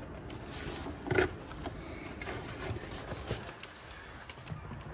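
Small clicks and handling noises from plastic electrical connectors being worked loose in a car's engine bay, with one sharper knock about a second in, over a steady low background rumble.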